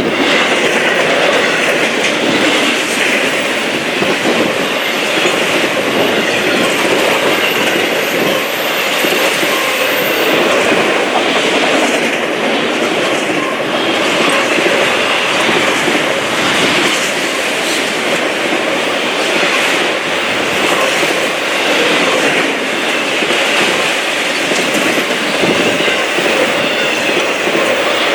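Double-stack intermodal container cars of a fast freight train rolling past at speed, a loud, steady rush of wheel-on-rail and car noise.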